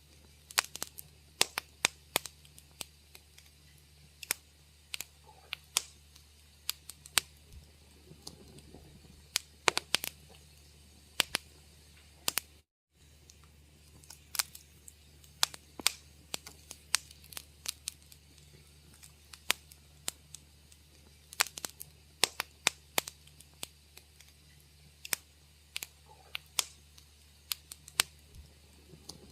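Wood fire crackling in a fireplace: irregular sharp pops and snaps, several a second, over a low steady hum. The sound drops out completely for a moment a little under halfway through.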